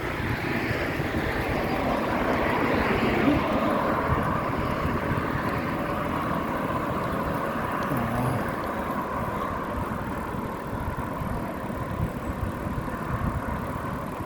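Road traffic noise heard from a moving bicycle, with wind rumbling on the microphone. The traffic swells a few seconds in and then eases off.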